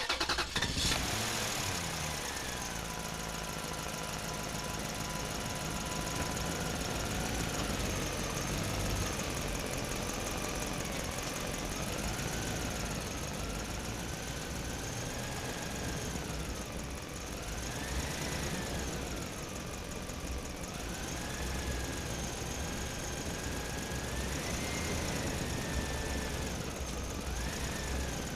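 A small motor running steadily, with a whine that slowly rises and falls in pitch as its speed changes, highest around two-thirds of the way through.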